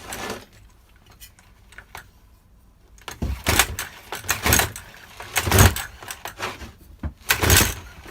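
Stihl FS240 brush cutter's recoil starter cord pulled several times, each pull a short rasping whirr, without the two-stroke engine firing.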